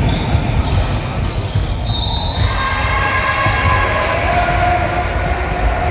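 Basketball game on an indoor court: a ball bouncing on the hardwood amid steady gym noise, with short high squeaks and voices in the background.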